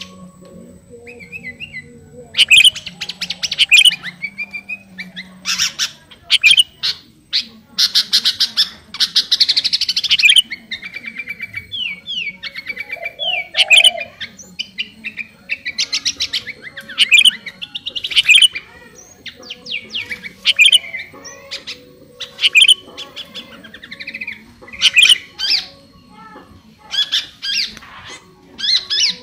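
Sooty-headed bulbul (kutilang) singing in repeated short, loud bursts of quickly rising and falling chirps and whistles, a phrase every second or two.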